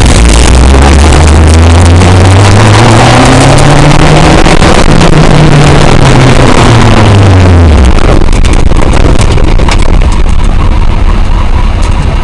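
Kawasaki ZX-10R inline-four motorcycle engine in a kit car, its note rising in pitch as the car pulls along, then falling back as it eases off. The engine note fades about eight seconds in, leaving loud wind and road noise buffeting the open cockpit's microphone.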